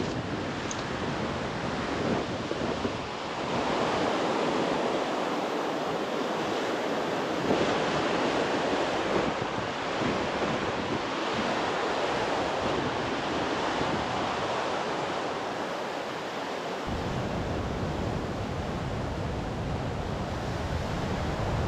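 Sea surf washing on the shore, a steady rushing noise, with wind. About two-thirds of the way through, a low wind rumble on the microphone suddenly joins it.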